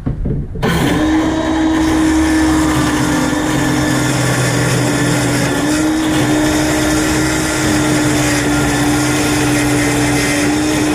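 An electric power tool starts sharply about half a second in and runs at a steady speed with a constant whine.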